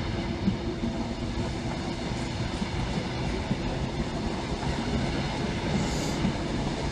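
Class 90 electric-hauled passenger train departing, its coaches rolling past with a steady rumble of wheels on rail.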